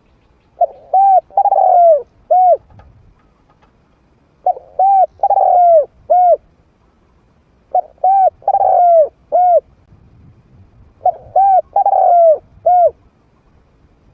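Spotted dove cooing, a mid-pitched voice: four alike phrases, each of short coos with one longer, falling coo in the middle, repeated about every three and a half seconds. It is a captive decoy bird's song of the kind played to draw wild doves in.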